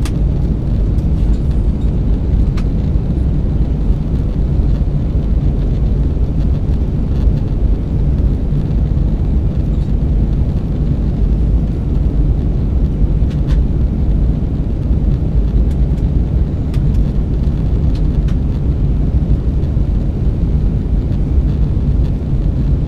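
Steady low rumble inside the passenger cabin of an Airbus A320 in descent: engine and airflow noise, with a few faint clicks.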